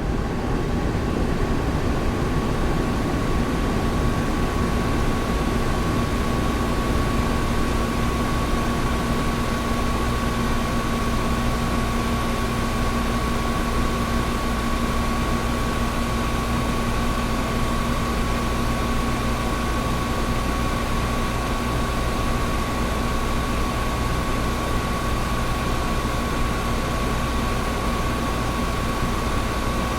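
Air conditioner running steadily: an even rush of air with two steady tones in it, one low and one higher.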